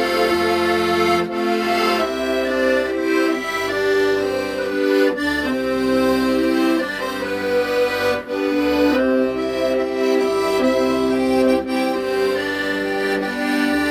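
Solo accordion playing a slow, sustained song melody over steady bass notes.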